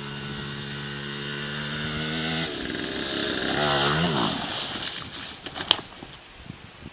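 A small motorcycle engine running at a steady pitch, then revving up and down about three to four seconds in before fading out. A few sharp knocks follow near the end.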